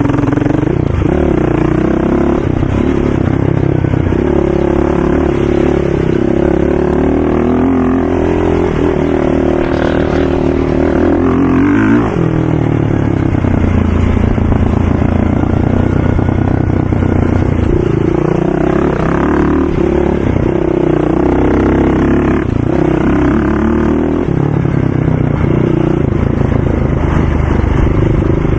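ATV engines running and revving, the pitch rising and falling with the throttle, with a sharp drop in revs about twelve seconds in.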